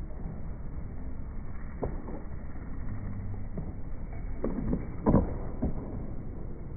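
Skateboard rolling with a steady low rumble, then a few sharp knocks of the board, the loudest about five seconds in: the tail popping and the board clacking down during an ollie attempt.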